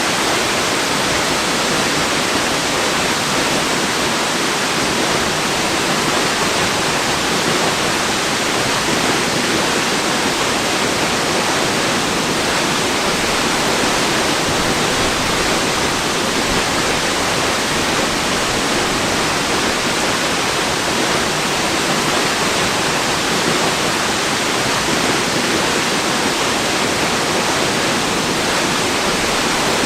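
Waterfall: water pouring and splashing in a steady, unbroken rush, with no changes in level.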